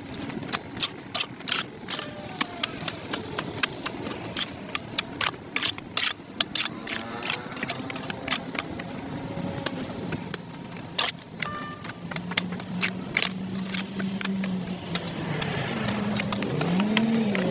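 Many quick, sharp scrapes and knocks of a cleaning tool on a concrete sidewalk, over a steady background of passing traffic. A steady engine tone joins in during the second half.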